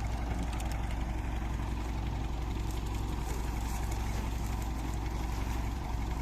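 An engine running steadily at idle: a low, even drone with no change in speed.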